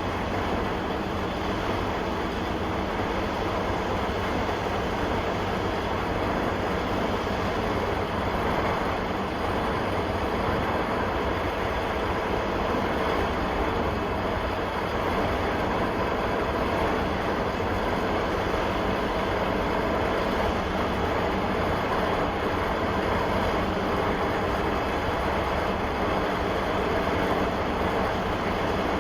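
1972 O&K V12 diesel engine running steadily after a cold start.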